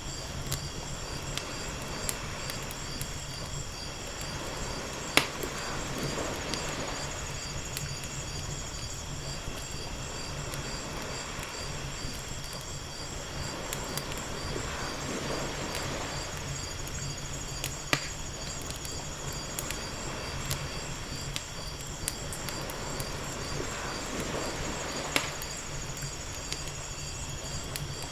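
Wood fire crackling, with scattered small clicks and a few louder pops, over gentle ocean waves washing in and out every several seconds.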